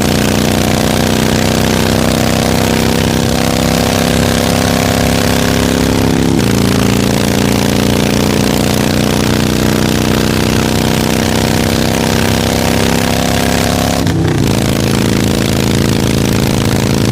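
Harley-Davidson V-twin motorcycle engine under way, its note climbing slowly as it accelerates. The pitch steps down about six seconds in and again, after a brief dip, near the end, as the rider shifts up a gear.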